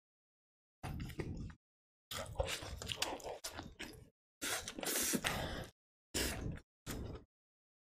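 Close-miked eating: wet biting and chewing into a foil-wrapped wrap. It comes in five short bursts, each cut off abruptly to dead silence.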